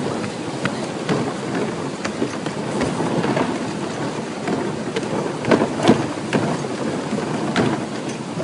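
Rushing water with many scattered sharp splashes or drops.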